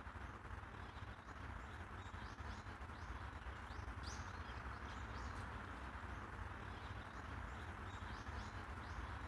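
Small birds chirping repeatedly in short, high notes over a steady background hum of outdoor ambience.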